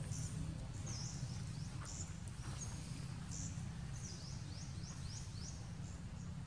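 Outdoor ambience of short high-pitched bird chirps, including a quick run of about five from about four seconds in, over a steady low rumble.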